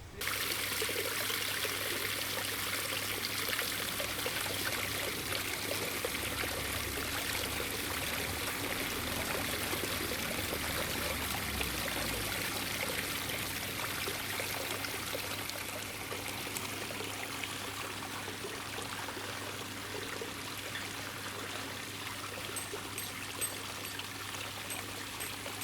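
Water trickling and pouring in a steady, continuous flow, easing slightly in level about two-thirds of the way through.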